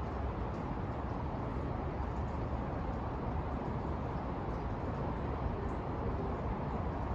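Steady low city ambience, an even rumbling hum of distant traffic with no single vehicle standing out.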